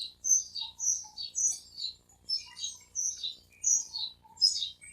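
A small bird chirping: a fast run of high, downward-sliding chirps, about three a second.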